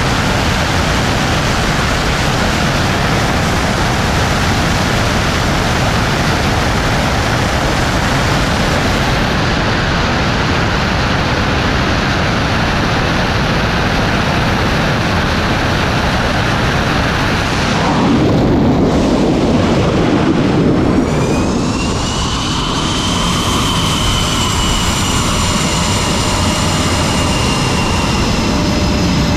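Loud, steady jet engine noise. About 18 seconds in the sound shifts, and from about 21 seconds a high turbine whine with overtones comes in, slowly falling in pitch.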